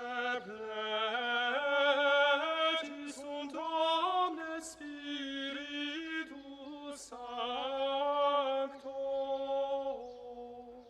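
Unaccompanied chant-style singing: long held notes that step slowly between a few pitches, dying away near the end.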